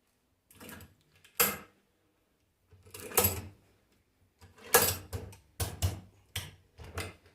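A new ball bearing being tapped into a Nissan Kicks alternator with a metal bearing driver, knocking only on the bearing's outer race. There is a rattly clatter of metal parts early on, then a quick run of about seven sharp metallic knocks in the second half as the bearing is seated.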